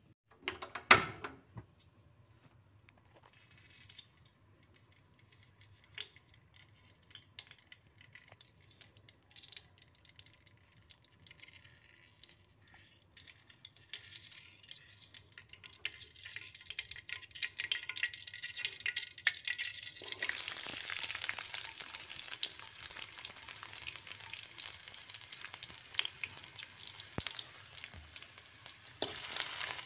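Cooking oil heating in a wok, crackling faintly and popping here and there, with one sharp knock about a second in. About two-thirds of the way through, a sudden loud, steady sizzle takes over as sliced onion goes into the hot oil and fries.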